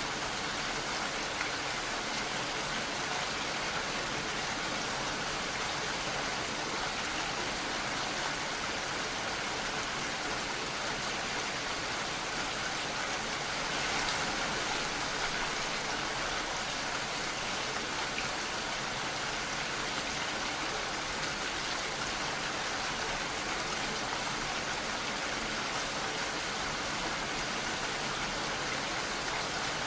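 Steady rain falling, an even hiss of many drops with a slight swell about halfway through.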